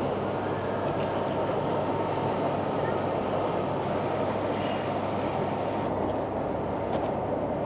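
Train running with a steady low hum and rumble.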